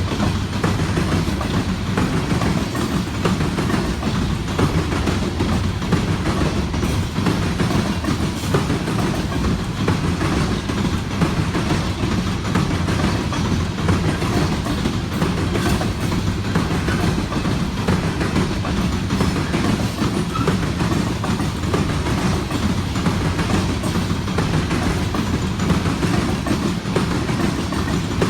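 A freight train rolling past at steady speed, a loud, even rumble of the cars on the rails with no break.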